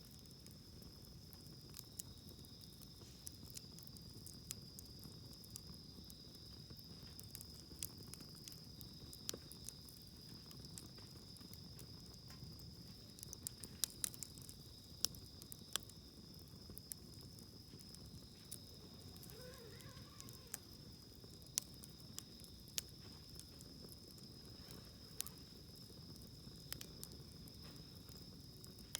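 Wood campfire crackling, with sharp pops scattered irregularly, the loudest a cluster about halfway through. A steady high-pitched insect trill runs underneath.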